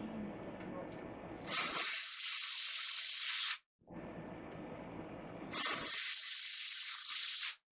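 Two bursts of pressurised spray hissing, each about two seconds long, the second starting about two seconds after the first ends.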